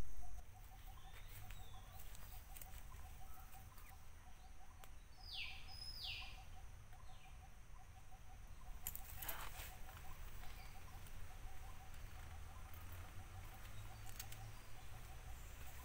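Birds calling in the background: a low note repeated evenly, about four times a second, with a pair of high falling calls about five seconds in and again near the end. There is a brief rustle about nine seconds in, over a steady low rumble.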